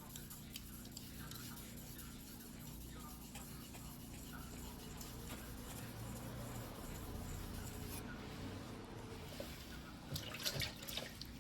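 A single-bevel white-steel fuguhiki knife being worked by hand on a wet whetstone: faint scraping strokes and dripping water, with a louder burst of scraping and splashing about ten seconds in.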